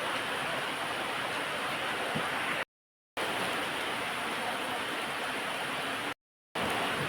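Heavy rain falling, a steady dense hiss that cuts out twice for a moment.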